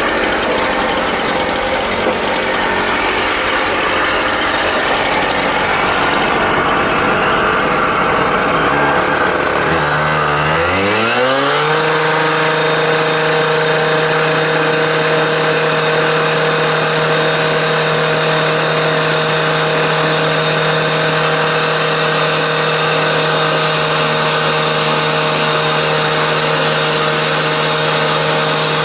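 An engine running rough and noisy, then revving up in a smooth rising glide about ten seconds in and holding a steady high speed.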